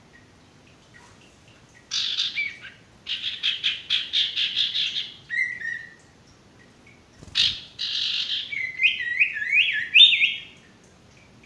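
Sirtu birds calling: harsh chattering bursts, a rapid run of repeated notes, then a string of short rising notes near the end, the kind of call used as a lure, a female calling to males. A single sharp click comes about halfway through.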